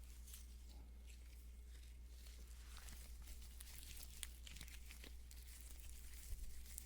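Faint, scattered crinkling and rubbing of nitrile-gloved hands spreading lotion, over a steady low hum.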